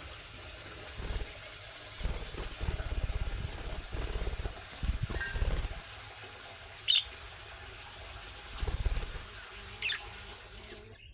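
Budgerigar giving two short, sharp chirps in the second half, over a steady hiss, with irregular stretches of low rumbling in between.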